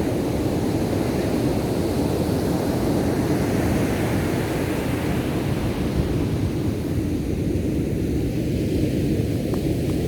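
Ocean surf with a steady low rumble and wind buffeting the microphone; the hiss of breaking water swells and fades around the middle.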